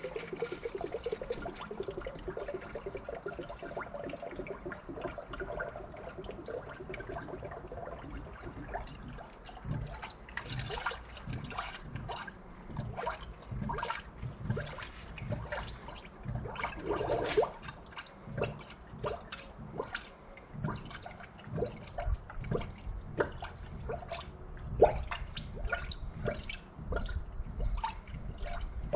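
Coolant being poured from a jug into a funnel on the radiator: a steady trickling pour for the first several seconds, then irregular gurgling and dripping splashes as it drains in.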